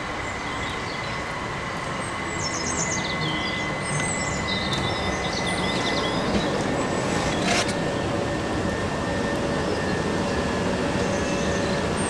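Class 375 electric multiple unit at the station: a steady rumble with a thin high whine held throughout. Birds chirp over it.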